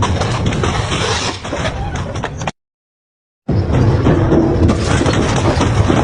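Double-shaft metal shredder crunching and tearing through metal, a dense run of cracks and grinding. About two and a half seconds in the sound cuts out completely for about a second, then the shredding resumes.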